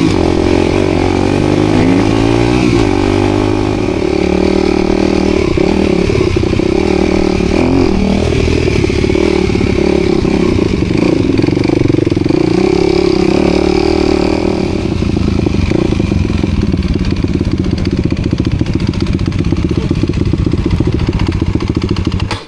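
Dirt bike engine being ridden, its revs rising and falling, then running more steadily in the second half; the sound cuts off suddenly at the end.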